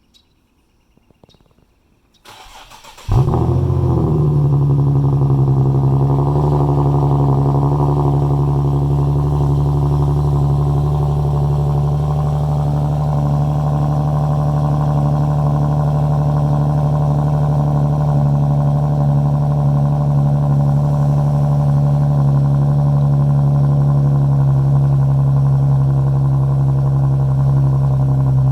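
Cold start of a 2010 Infiniti G37x coupe's 3.7-litre V6 with the muffler deleted: a few faint clicks, a brief starter crank about two seconds in, then the engine catches about three seconds in with a short flare. It settles into a loud, steady idle and is not revved.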